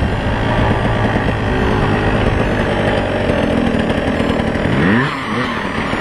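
Off-road motorcycle engine running steadily under load. About five seconds in, the revs rise and fall several times in quick succession.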